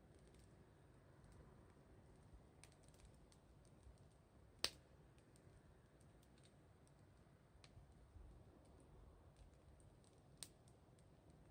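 Faint crackling of a wood campfire: scattered small ticks, with one sharp pop about four and a half seconds in and another near the end.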